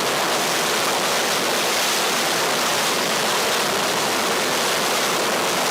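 Hybrid rocket engine firing on a static test stand: a loud, steady rushing noise of the burn that holds even and unbroken.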